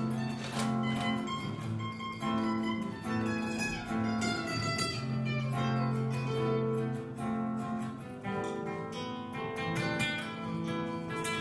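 Background music played on a plucked string instrument, an acoustic guitar, with notes and chords changing every second or so.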